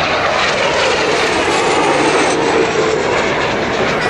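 Kawasaki T-4 jet aircraft passing overhead: loud, steady jet-engine noise with a faint pitch that glides slowly.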